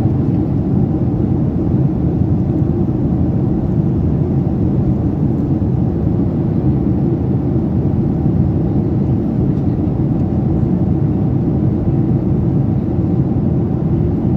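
Cabin noise inside a Boeing 737-800: a loud, steady low rumble of the engines and rushing air, without change.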